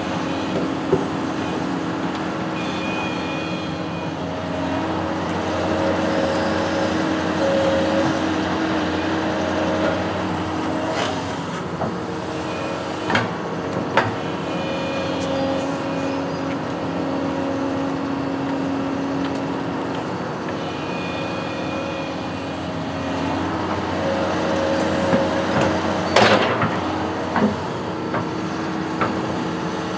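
Construction machine's engine running steadily, its note shifting every few seconds as the load changes, with a few sharp metal clanks near the middle and again near the end.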